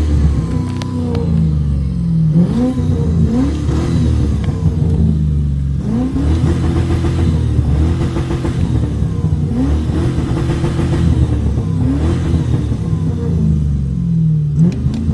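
V8 car engine being revved over and over, the pitch climbing quickly, holding briefly, then dropping back, about every one to two seconds.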